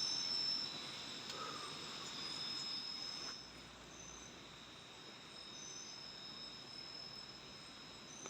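Night-time chorus of forest insects: steady, high-pitched trilling on two even tones. It gets a little quieter about three seconds in.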